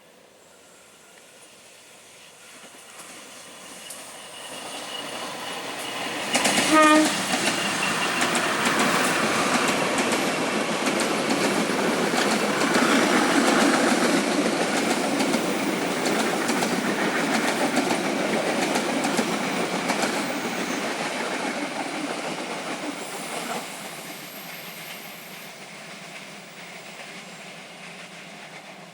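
A train approaching and passing close by: one short horn blast as it nears, then a long rumble and clatter of wheels over the rail joints, fading away near the end.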